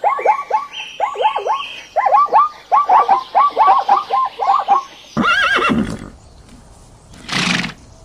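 Horse whinnying: a rapid run of short rising-and-falling calls for about five seconds, then a single louder call and, near the end, a short noisy burst.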